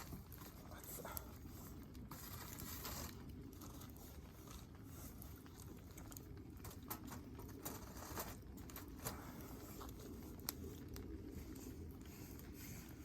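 Wood campfire burning, with scattered crackles and pops over a low steady rush.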